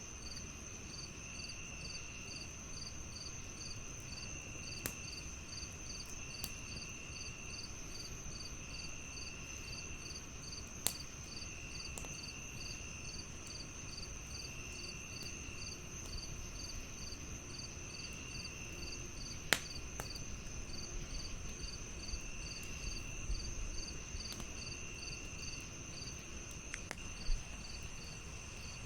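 Crickets chirping in several overlapping layers: one steady high trill, one fast even pulsing, and a lower trill that comes in bursts about a second long. A handful of sharp pops from a crackling wood fire break through now and then, the loudest events.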